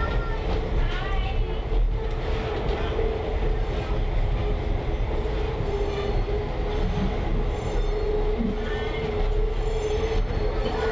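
Train rolling along the rails, heard riding in a caboose: a steady rumble with a steady high wheel-squeal tone over it.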